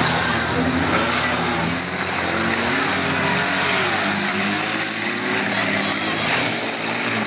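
Several car engines revving and accelerating in a demo-cross race on a dirt track, their pitches rising and falling as the cars pass, over a dense steady background noise.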